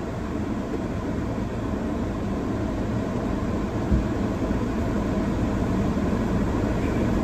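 Steady low rumble of a car running, heard from inside the cabin, with one brief thump about four seconds in.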